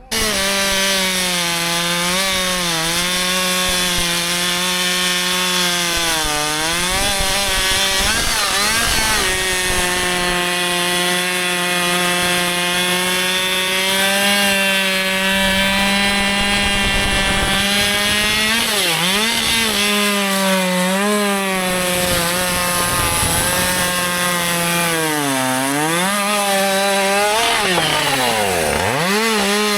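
Husqvarna 564 XP two-stroke chainsaw running at high revs while cutting into wood, its pitch dipping and recovering several times as the chain takes the load or the throttle eases off.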